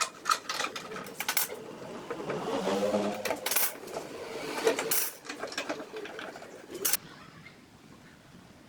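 Irregular clicks and knocks, with a brief pitched whir about three seconds in; the clatter stops about seven seconds in.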